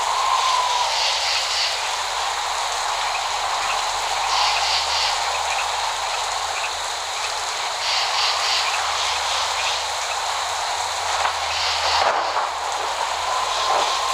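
Steady rain pouring down, an even hiss. A faint high chirping recurs about every three and a half seconds.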